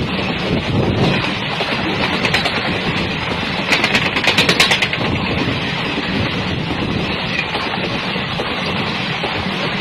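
Sevagram Express passenger train running on the track, a steady rumble of wheels on rails, with a quick run of sharp clacks about four seconds in.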